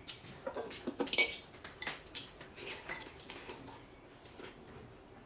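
Irregular clinks and taps of cutlery against dishes at a meal, several light knocks a second with a few louder ones.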